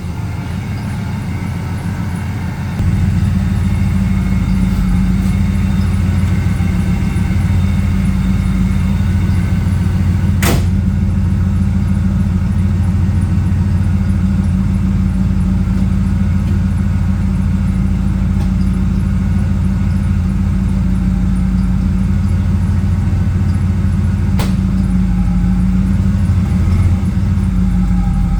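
Chevrolet 454 SS pickup's big-block V8 idling steadily, its sound stepping up in loudness about three seconds in. A sharp click comes about ten seconds in and a fainter one near the end.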